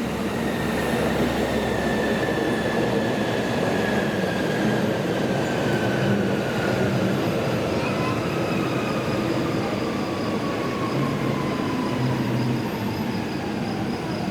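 Rhaetian Railway train running past, a loud steady rumble with a thin whine that falls slowly and steadily in pitch throughout.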